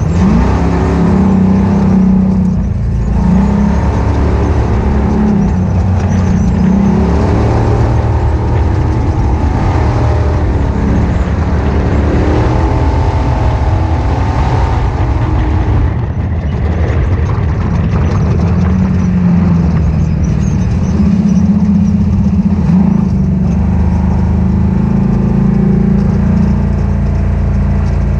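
Ultra4 off-road race car's engine running hard, its pitch rising and falling repeatedly with the throttle.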